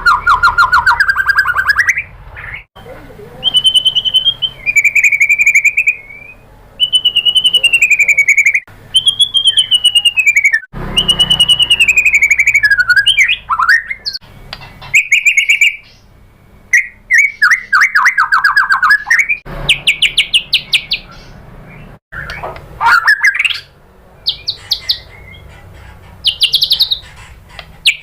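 White-rumped shama (murai batu) singing a rapid series of loud phrases with short gaps between them. Clear whistled notes that slide up and down alternate with fast rattling runs of repeated notes, the quick bursts bird-keepers call 'tembakan'.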